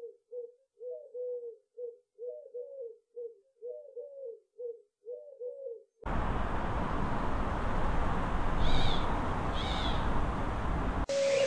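Pigeon cooing: a rapid run of short, low coos with a slight rise and fall. About halfway through it cuts abruptly to a loud steady rushing noise, with two brief high chirps from another bird.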